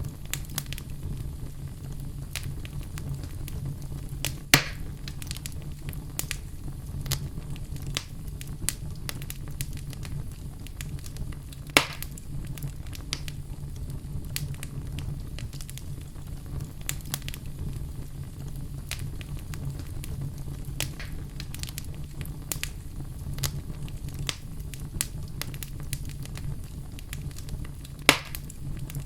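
Wood fire burning in a fireplace, crackling continuously over a steady low rumble of the flames, with three sharp, louder pops spread through.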